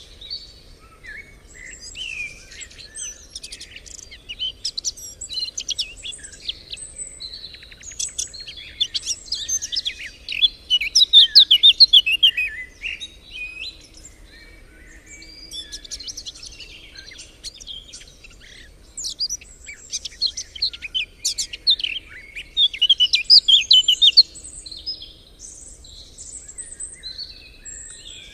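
Several songbirds singing and chirping together, a dense chorus of quick high chirps and trills, with two louder rapid trilled phrases about a third of the way in and again near two-thirds.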